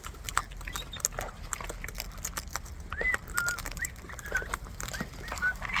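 Birds feeding on seed: many irregular sharp clicks of beaks cracking and picking at seed. From about three seconds in, short high chirps come several times.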